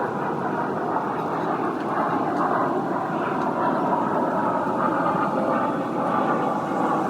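Steady, dense rushing noise, mostly low and mid pitched, with no clear rhythm or distinct events.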